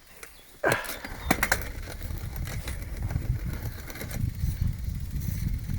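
A clatter and a few sharp clicks about a second in, then a steady, gusting low rumble of wind on the microphone while riding a bicycle.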